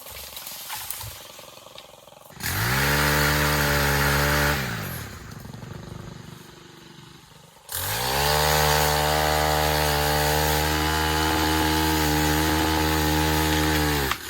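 Stihl battery-powered pole saw running in two bursts: it spins up about two and a half seconds in and winds down two seconds later, then runs again for about six seconds from near the eight-second mark before stopping.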